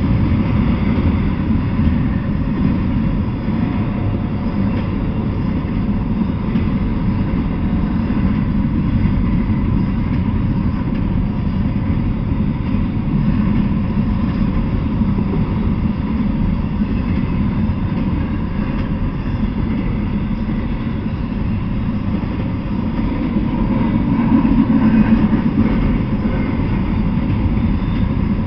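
Freight train passing at speed: a steady, loud rumble of its container and hopper cars rolling over the rails, swelling slightly near the end.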